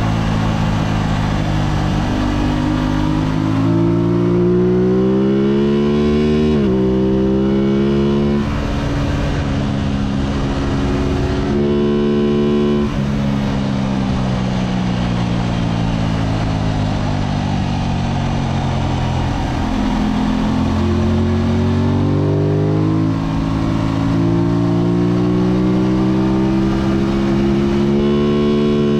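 Sport motorcycle's engine heard onboard on a racetrack, its pitch repeatedly climbing under acceleration and falling away as it slows, with a sharp drop at a gear change about a third of the way in. Steady wind rush runs under it.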